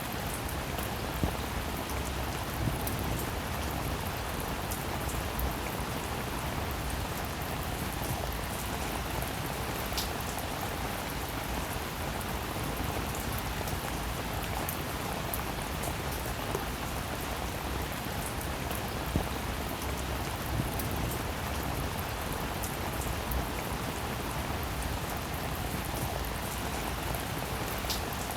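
Steady rainfall, a constant hiss with scattered individual drops ticking out above it.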